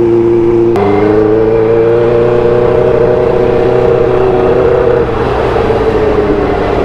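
Suzuki GSX-R600 sport bike's inline-four engine running under light throttle. Its note shifts abruptly about a second in, climbs slowly as the bike speeds up, and eases off about five seconds in.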